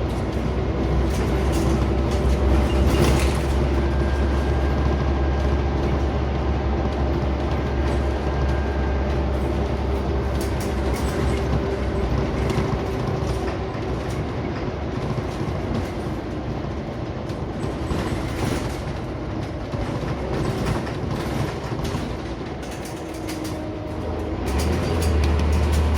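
Inside a moving Scania Omnicity single-deck bus: the diesel engine drones under frequent rattles and knocks from the body and fittings. The low engine drone eases off about ten seconds in and comes back stronger near the end.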